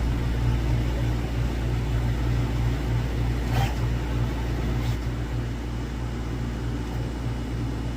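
Steady low mechanical hum with a faint hiss, and a couple of light clicks about three and a half and five seconds in.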